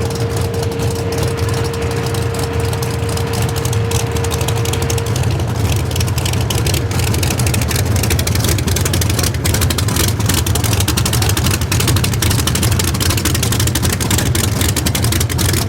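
Fulton 706 all-aluminum big-block Chevy V8 drag engine running, a loud steady low rumble with a rapid choppy pulse and no clear rise or fall in revs.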